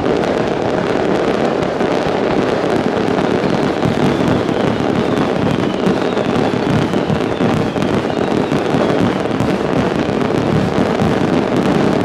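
Aerial fireworks bursting in a dense, unbroken barrage, a continuous rumble of booms and crackle from many shells at once, with a faint falling whistle in the middle.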